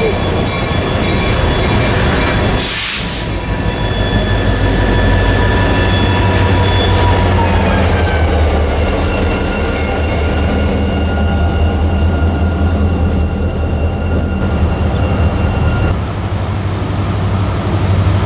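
Train passing with a steady low rumble of the locomotives and cars. Over it runs a high squeal of several tones, which drops in pitch partway through as the source goes by and fades out near the end. A short hiss sounds about three seconds in.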